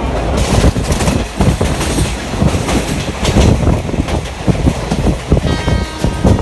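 Passenger train running at speed, heard from on board: a steady rumble with the clickety-clack of wheels over rail joints. A horn begins sounding about five and a half seconds in and holds to the end.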